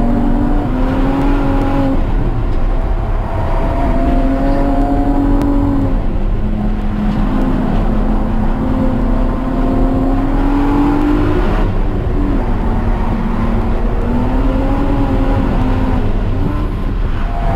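A car engine driven hard on a race track, its note climbing steadily and dropping back sharply several times. A steady rush of wind and road noise runs under it.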